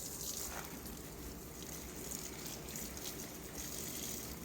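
Water splashing steadily onto garden plants and soil as they are watered.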